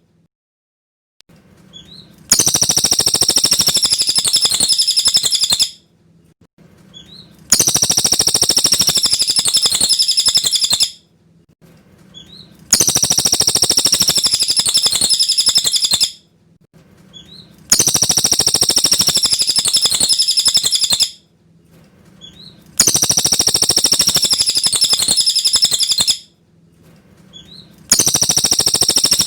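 Cililin bird singing: a high, rapid, twittering song in phrases of about three seconds, repeated the same way every five seconds or so with short pauses, as a looped recording.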